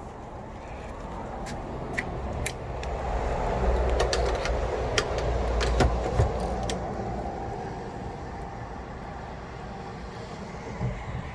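A vehicle passing by, its noise swelling to a peak in the middle and fading away over several seconds, with a scatter of sharp clicks while it is loudest.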